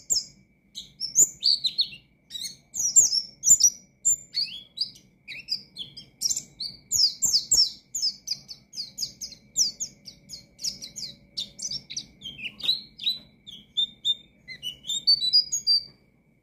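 White-eye (pleci) singing a fast, continuous twittering song of short, high, mostly falling chirps with brief pauses; the song stops near the end.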